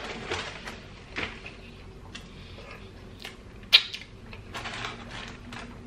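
A man chewing a mouthful of burger close to the microphone: wet smacking and clicking of the mouth at irregular intervals, with one sharper click a little before four seconds in.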